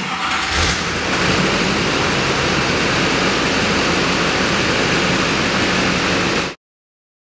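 The 2007 GMC Sierra 2500HD's 6.6-litre Duramax turbo-diesel V8 running, a steady rumble under a heavy even hiss, cut off suddenly near the end.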